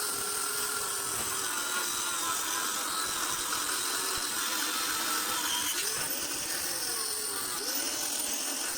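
Angle grinder cutting through the steel shell of a refrigerator compressor, running steadily with its pitch wavering as the load changes, then cutting off abruptly at the end.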